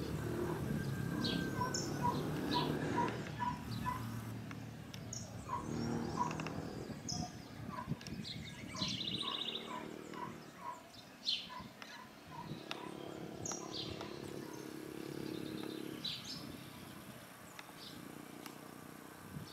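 Songbirds chirping, with short high chirps scattered throughout. One bird repeats a short lower note about twice a second, in the opening seconds and again in the middle. A low background hum lies underneath.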